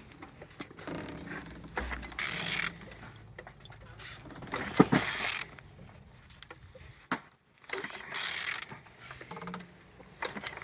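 A20DTH diesel engine being turned over by hand at the crankshaft: three mechanical turning strokes, each about half a second, roughly three seconds apart. The engine turns freely, with compression reported good on all cylinders.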